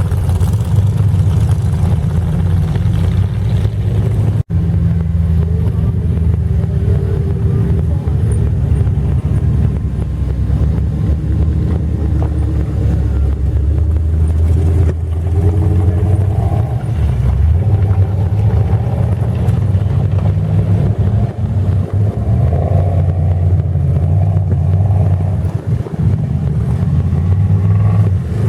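Loud mud truck engines running steadily under load, with a brief break about four and a half seconds in.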